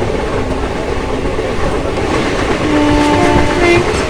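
Train running with a steady rumble of wheels on the track; about two-thirds of the way in, the train's horn sounds for about a second, shifting between two pitches.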